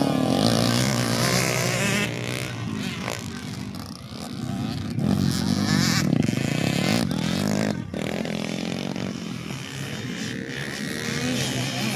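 Motocross bike engines revving hard during a race, their pitch rising and falling as the riders work the throttle, louder about halfway through.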